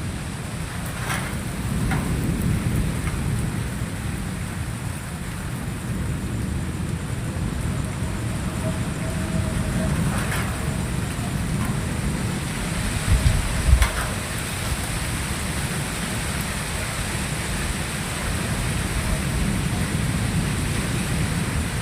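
Steady rain during a thunderstorm, with thunder rumbling low underneath. A louder rumble swells a little past the middle, and a few sharp drip-like ticks sound.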